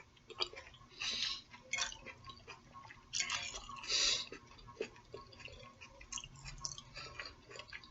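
Quiet chewing and mouth sounds of someone eating, with scattered small clicks and a few brief soft hissy rustles.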